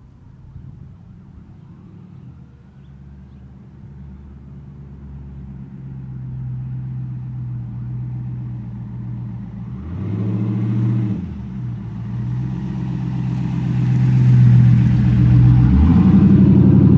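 Exhaust of a 1998 Pontiac Firebird Formula's LS1 V8, breathing through a high-flow MagnaFlow catalytic converter and a glasspack, growing steadily louder as the car approaches. About ten seconds in the revs briefly rise and fall, and the exhaust is loudest near the end, with a sudden change in pitch around sixteen seconds in.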